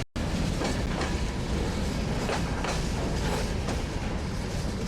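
A train running on the Baikal–Amur Mainline: a steady low rumble of the wheels on the rails with repeated clicks as they pass over rail joints. It cuts in after a short break at the very start.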